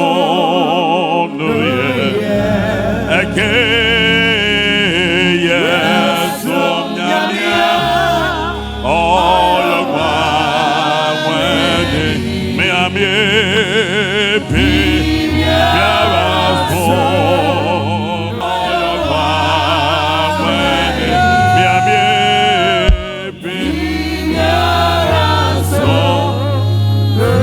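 Gospel worship singing: voices singing with strong vibrato over an instrumental accompaniment with a low bass line.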